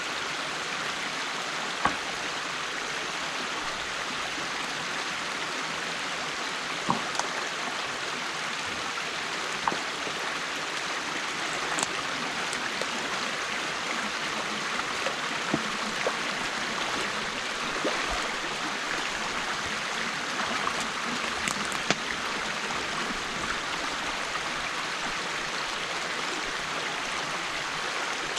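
Stream water rushing steadily through an opening in a beaver dam, with about ten short sharp knocks scattered through it.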